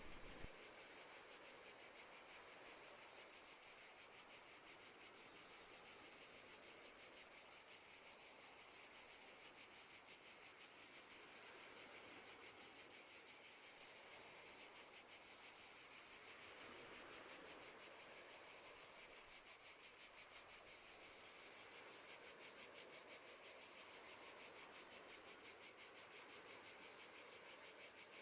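Crickets chirping in a fast, even pulse, faint and steady.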